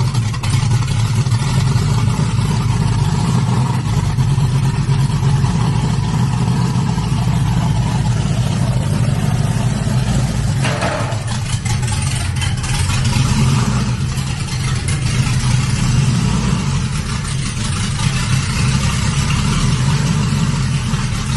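Cadillac V-series car's engine idling steadily through its exhaust, a continuous deep hum.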